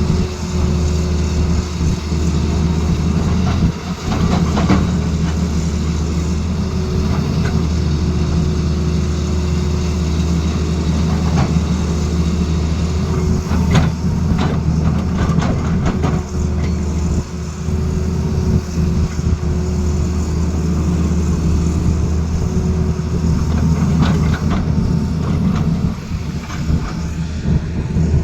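Excavator's heavy diesel engine running steadily under load, with a few scattered metallic clanks.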